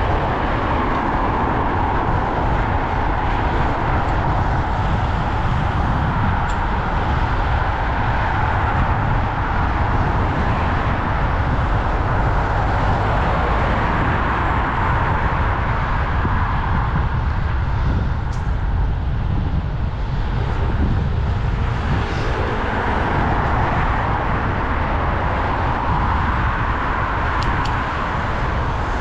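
Steady wind rumble on a GoPro's microphone while cycling, mixed with road and traffic noise, with no pauses or sudden changes.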